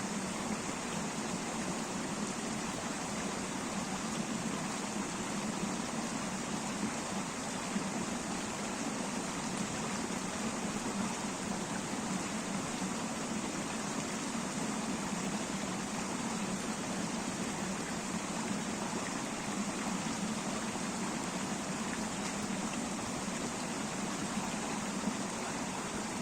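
Mountain river running over rocks: a steady, unbroken rush of water.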